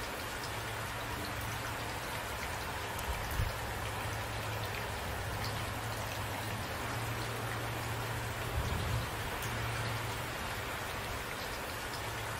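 Steady rain falling, a dense patter of drops, over a low steady rumble, with two brief low thumps about three seconds and nine seconds in.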